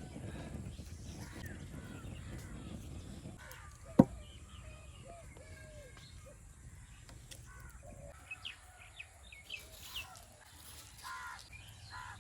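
Birds calling with short chirps and caws, over a low rustling noise in the first few seconds. One sharp click or knock about four seconds in is the loudest sound.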